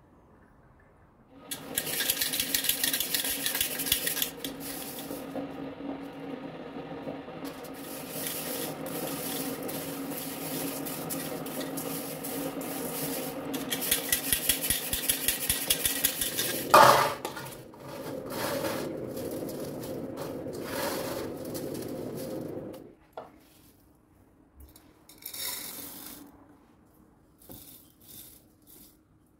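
A small electric kitchen grinder runs steadily with a rattling whirr for about twenty seconds, grinding sumac, with one sharp clatter a little past the middle. It then stops, and a few light knocks follow.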